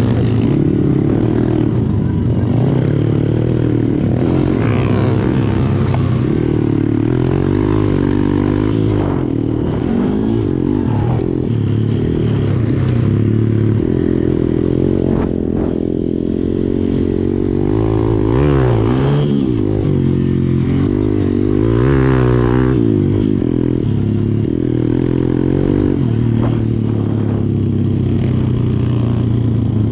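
Dirt bike engine running hard, its pitch rising and falling repeatedly as the throttle is worked.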